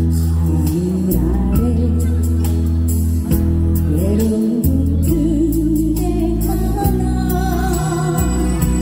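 Live music: a woman sings a wavering melody over a backing band with a steady bass line.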